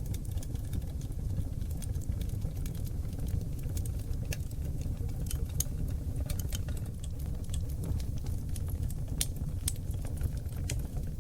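Wood fire burning on oak logs in a fireplace: a steady low rumble of the flames with frequent sharp crackles and pops scattered irregularly throughout.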